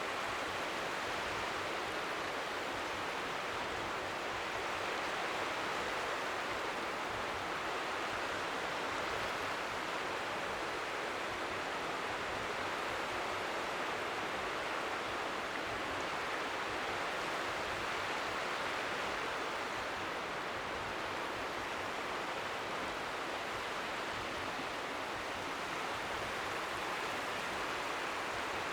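Strong wind at the seashore making a steady, even rushing noise, with small waves lapping faintly beneath it.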